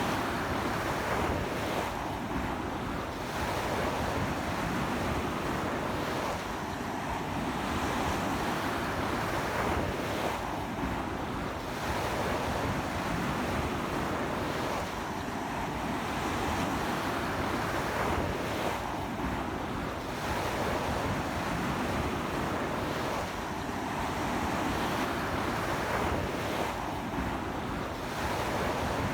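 Strong ocean surf washing onto a beach in a continuous roar that swells and eases every four seconds or so, with the strong sea wind buffeting the microphone.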